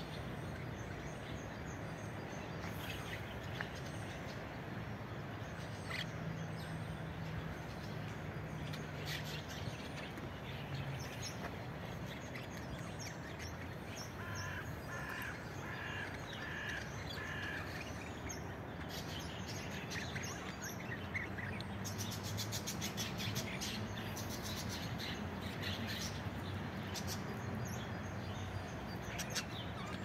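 Birds calling in an aviary: scattered short chirps throughout, and near the middle a run of about six evenly repeated calls, over a low steady hum.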